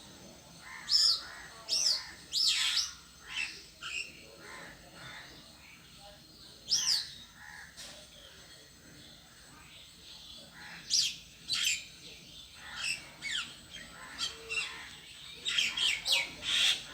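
A bird calling in short, sharp, high chirps and squawks, some sweeping down in pitch. The calls come in irregular bouts with gaps between them and come thick and fast near the end.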